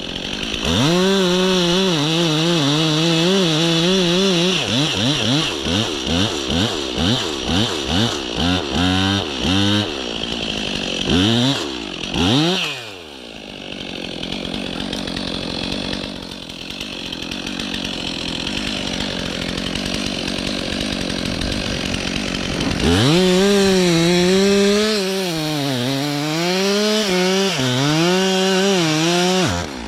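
Stihl MS 362 C two-stroke chainsaw cutting birch at full throttle, its pitch sagging under load, then blipped in a string of short revs about once a second. It drops to idle for about ten seconds, then runs at full throttle through a second cut that stops near the end.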